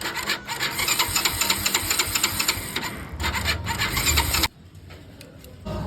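Vehicle starter motor ('self') cranking with a harsh, rapid rattle, cutting off abruptly about four and a half seconds in: the starter noise that the repair addresses.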